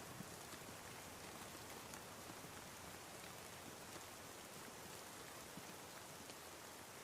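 Steady, quiet rain falling, with faint scattered drop ticks.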